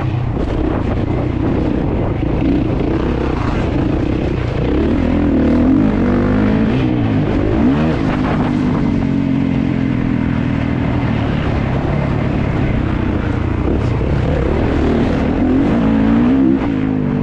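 Kawasaki KX450 four-stroke single-cylinder motocross engine racing under load. It revs up and down several times as the rider works the throttle through the track.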